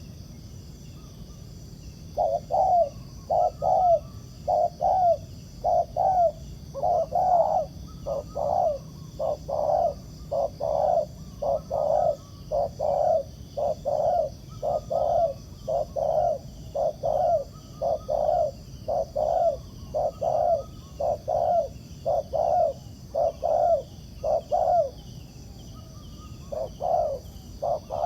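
Spotted doves cooing: a quick, steady run of short coos, about two a second, starting a couple of seconds in and going on without a break. A steady high insect drone lies underneath.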